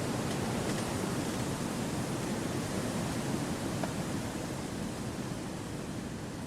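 Steady wind rushing through forest trees, a soft even roar that swells a little and then eases slightly in the second half.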